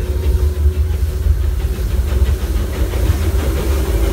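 Disneyland Railroad steam train rolling along the track: a steady low rumble with a faint high tone from the wheels.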